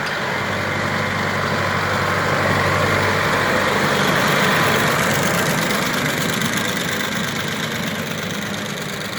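Tractor engine running steadily with a broad hiss over it. It grows louder to a peak about halfway through, then fades as the tractor and its sprayer pass.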